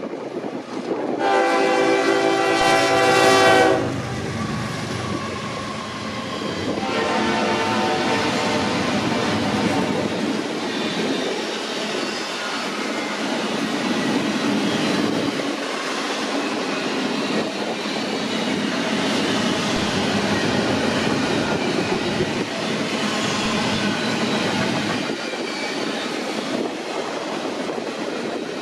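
BNSF freight locomotive's air horn sounding two blasts: a loud one about a second in and a longer one about seven seconds in that fades away. Then the steady rumble and clickety-clack of double-stack container well cars rolling past on the rails.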